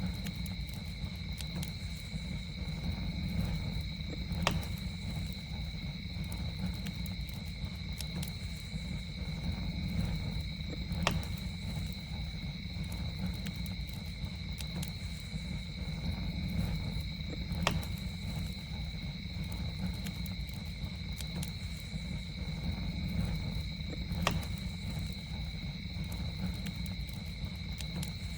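Campfire burning with a steady low rumble and a sharp pop every six or seven seconds, with fainter crackles between. Insects trill on two steady high pitches throughout.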